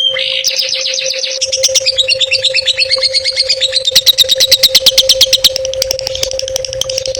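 Recorded songbird song: continuous high-pitched trills of rapidly repeated short notes, changing phrase every second or two, with a fast, loud rattle of clipped notes about four seconds in. A steady low hum runs underneath.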